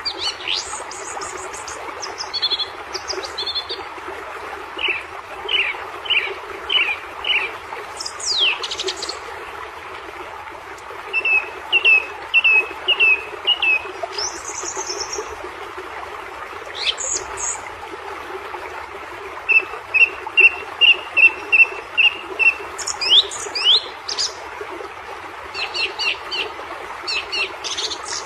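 Birds calling: several runs of short repeated chirps, four to eight notes at a time, mixed with sharp high down-slurred calls, over a steady hiss in the background.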